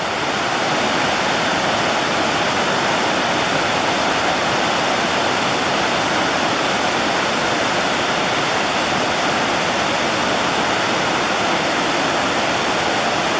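Water of the Bog River Falls rushing over rocks: a loud, steady, even noise with no breaks.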